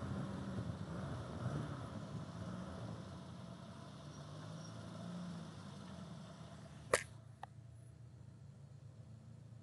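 Car engine running with road noise, heard from inside a car: the engine note rises and falls and then drops away over the first six seconds. A sharp click about seven seconds in, followed by a fainter one.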